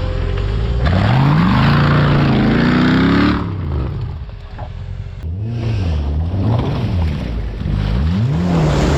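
Off-road 4x4 competition vehicle's engine revving hard: one long climbing rev in the first few seconds, then after a brief dip a series of shorter revs rising and falling.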